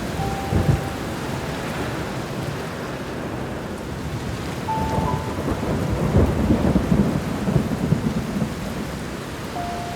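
Steady rain with thunder rumbling low, swelling most from about six to eight and a half seconds in. A few soft, sustained piano notes sound faintly near the start and again around five seconds in.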